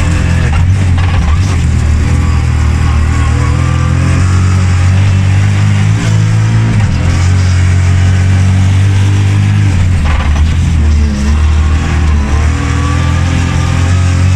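Ford Fiesta rally car's turbocharged engine driven hard, heard loud from inside the cabin. Its revs shift several times, with a change about six seconds in and dips and rises near the end.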